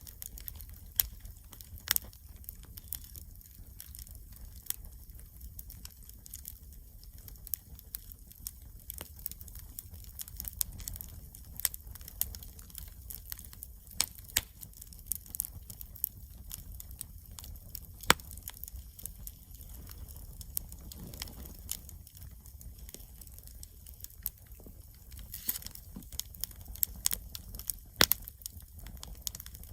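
Wood campfire crackling: irregular sharp pops and snaps over a low steady rumble, with one loud pop about 18 seconds in and a cluster near the end.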